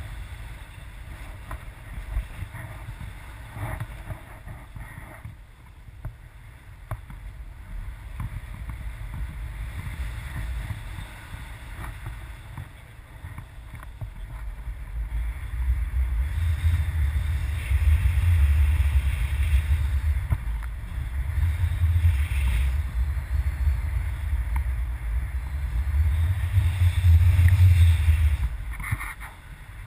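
Wind buffeting the microphone in uneven gusts, a low rumble that grows louder and stronger about halfway through.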